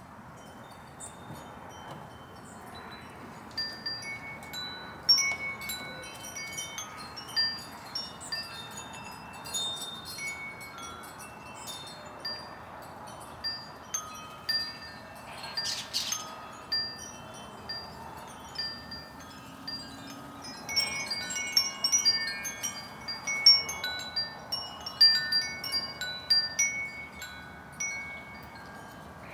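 Wind chimes ringing in irregular clusters of clear tones at several pitches, busier in the last third, over a steady outdoor background hiss. A brief hiss-like burst comes about halfway through.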